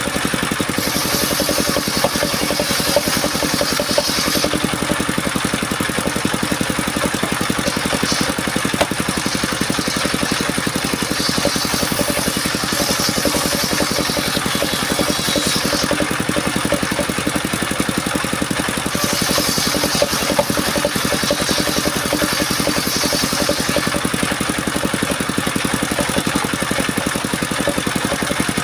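Engine of a mobile circular-saw sawmill running steadily, with three spells of a higher-pitched hiss, each three to four seconds long, as the blade cuts through mahogany.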